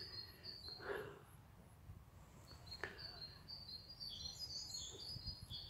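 Faint chirping of a small bird: runs of short, high notes repeated in quick series, broken by a pause of about two seconds, with a single faint click shortly after the notes start again.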